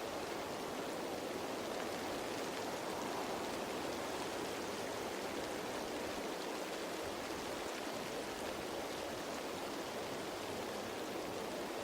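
Steady rain falling on leaves: an even hiss of many small drops.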